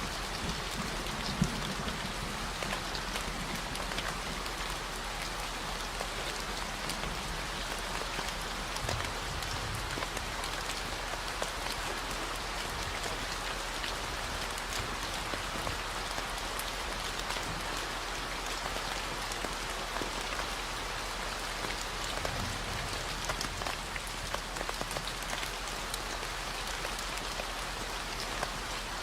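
Steady rain falling on a surface, an even hiss with scattered sharp drop ticks, under a continuous low 40 Hz tone.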